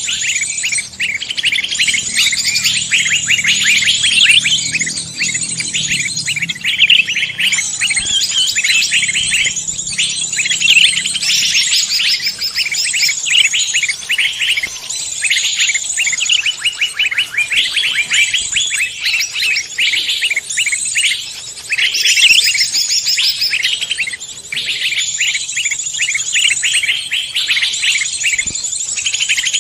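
Songbirds singing in a dense, continuous chorus of rapid, high-pitched chirps and trills, with short lulls about two-thirds of the way through.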